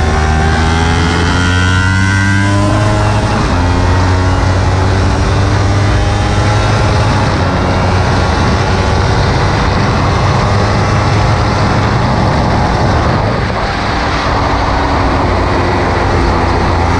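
Kawasaki Ninja 300's parallel-twin engine under hard acceleration on track, recorded from onboard the bike. Its pitch climbs, drops sharply at an upshift two to three seconds in, then climbs again, all over a steady rush of wind.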